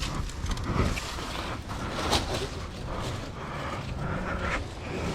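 Scattered scuffs and rustles of a person climbing up a rock face, over a steady low rumble.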